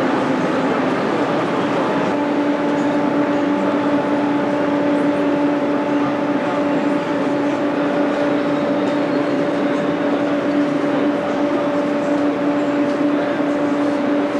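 Steady vehicle running noise with a steady electric hum that comes in about two seconds in and holds level.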